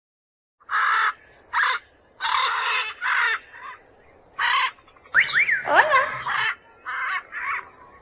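A bird giving a series of short, harsh squawking calls, with whistled calls that slide up and down in pitch mixed in about five seconds in.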